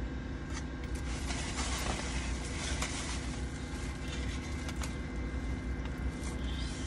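Steady low hum of a car idling, heard inside the cabin, with a few faint clicks and mouth sounds as a fried egg roll is handled and bitten into.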